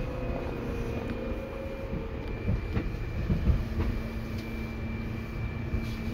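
Seibu 2000 series electric train running, heard from inside the car: a steady rumble with a faint whine that drops slightly in pitch and fades about two seconds in. A few low thumps follow, then a steady lower hum.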